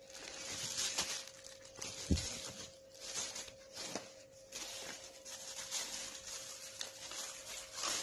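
Packaging being rustled and vacuum cleaner accessories handled, in uneven surges, with a few sharp knocks, about a second, two seconds and four seconds in. A faint steady hum runs underneath.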